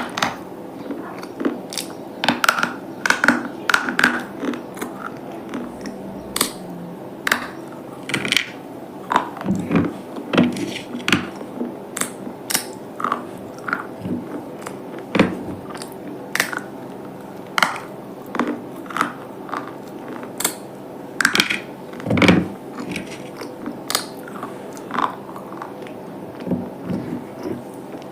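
Close-up biting and crunching of hard, brittle slate pieces: many sharp crunches at an uneven pace over a steady low hum.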